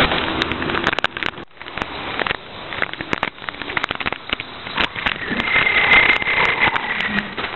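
Recyclables clattering into the hopper of a Heil 5000 rear-loader recycling truck: many sharp clinks and knocks over a rattle. A brief high squeal comes about five to seven seconds in.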